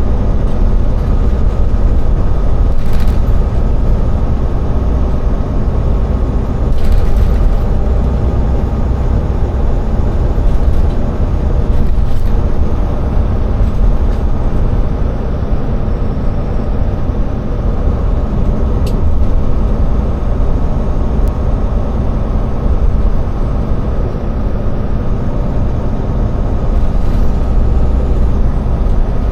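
Semi tractor's diesel engine and road noise heard from inside the cab while driving: a loud, steady low rumble with a few brief knocks.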